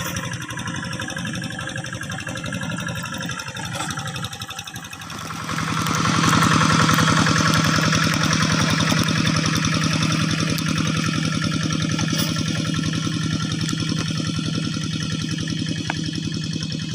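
Single-cylinder diesel engine of a Kubota hand tractor running with a rapid, even beat; about five seconds in it speeds up and gets louder, then holds that higher, steady speed.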